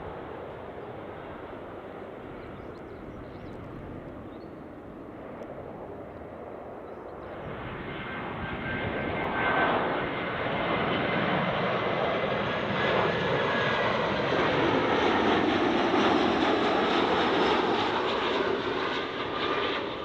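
Jet airliner on short final approach passing close overhead. The engine noise swells from about seven seconds in, with a steady high whine over the rush, stays loud, then falls away near the end.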